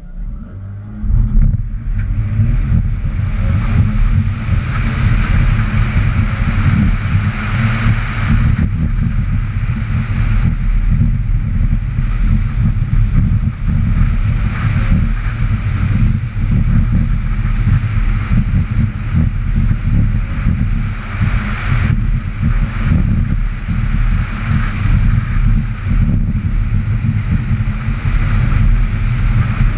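2008 Mazda RX-8's twin-rotor rotary engine launching from a standstill about a second in, then running hard for the rest of the run with its level rising and falling as the throttle is worked, heard from inside the car.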